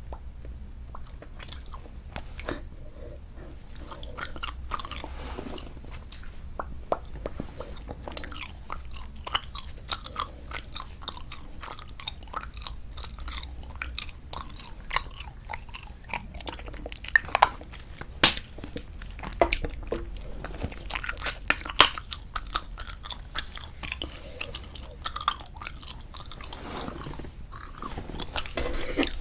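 Close-miked chewing of soft squeeze-tube bubble gum: a steady run of wet, sticky mouth clicks and smacks, with a few louder sharp snaps a little past the middle.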